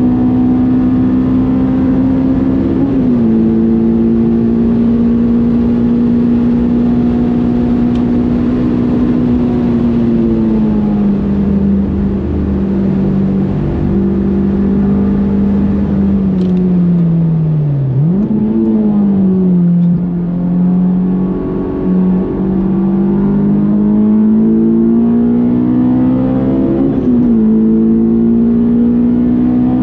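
Honda S2000's 2.2-litre F22 four-cylinder engine running hard at high revs on track. Its note holds mostly steady, steps down a little about three seconds in, sags around ten seconds, dips sharply just before eighteen seconds and jumps back up, and climbs again near the end.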